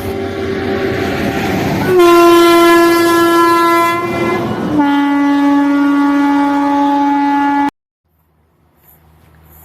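Train locomotive horn sounding long and loud over the noise of a running train, its held note stepping down in pitch twice, then cutting off abruptly about three-quarters of the way in. A faint rumble of an approaching train slowly builds near the end.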